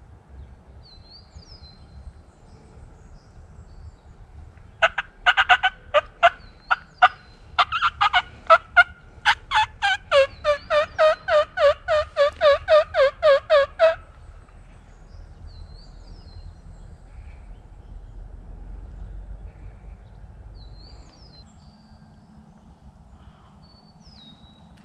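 Wild turkey calling: a burst of sharp, irregular clucks and cutts, then a steady run of about four yelps a second, each falling in pitch, which stops abruptly. Faint songbird chirps sound in the background.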